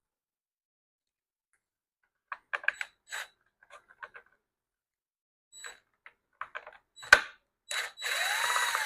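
Small metal clicks and rattles of a longer T15 Torx bit being handled and fitted, a sharp knock about seven seconds in, then a cordless driver running near the end, its motor whine rising and falling as it turns out a screw in the blower housing.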